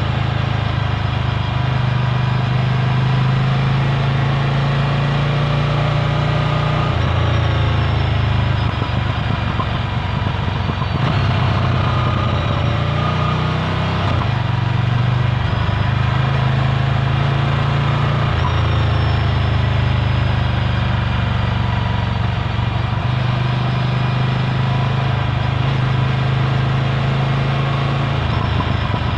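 Ducati Scrambler Full Throttle's air-cooled L-twin engine running through a Termignoni exhaust, heard onboard; the engine note holds steady and shifts in speed several times.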